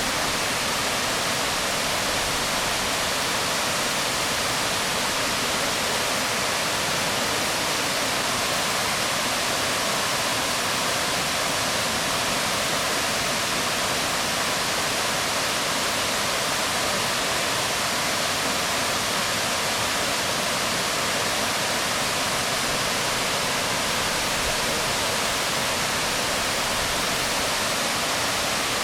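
Waterfall splashing onto rocks: a steady, unbroken rush of water.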